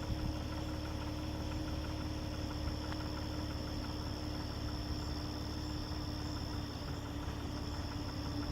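Car engine and cabin noise: a steady low rumble with a thin, steady high tone above it.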